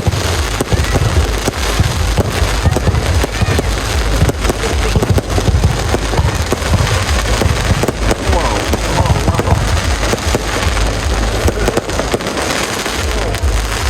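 A fireworks display going off without a break: many sharp cracks and low booms in quick succession.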